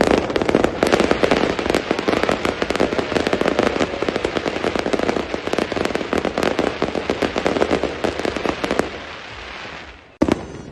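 Firecrackers bursting in very rapid succession, a dense crackle of bangs that goes on for about nine seconds and then thins out, followed by one more single sharp bang near the end.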